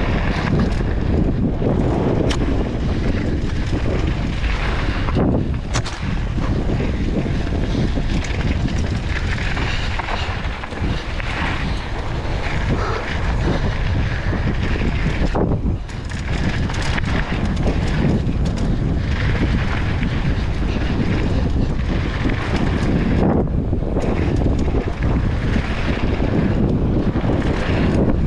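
Strong wind buffeting the microphone over the rolling and rattling of a mountain bike riding downhill on a dirt trail, with a few sharp knocks from the bike.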